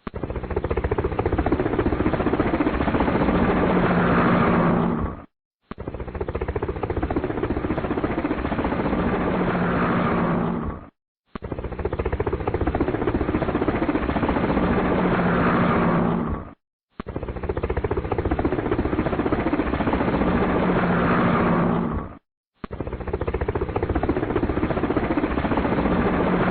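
A helicopter sound effect, rotor and engine noise, played as a loop. The same clip of about five and a half seconds repeats five times, each copy cut off by a brief gap of silence.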